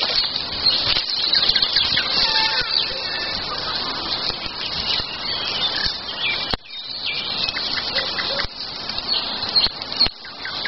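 Songbirds singing: many short whistled notes and trills over a steady rushing background noise.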